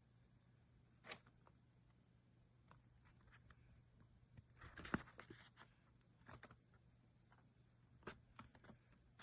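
Near silence with a few faint, short clicks and rustles of handling noise, the sharpest about five seconds in.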